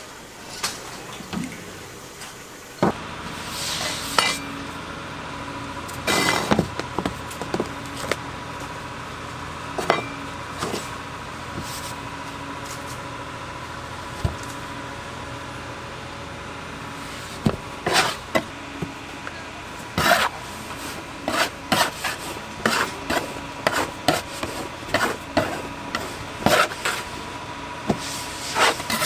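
Clinking and knocking of metal utensils and pans in a bakery kitchen, over a steady machine hum. The knocks come quickly and irregularly near the end.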